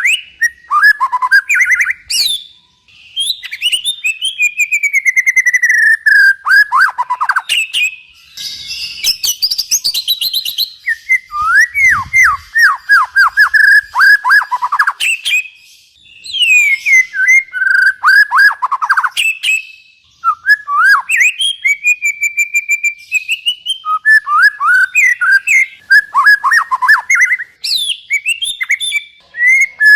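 Songbird song from a masteran training recording: a fast, varied string of whistled phrases, rapid downward-sweeping notes and trills, coming in bursts with brief pauses.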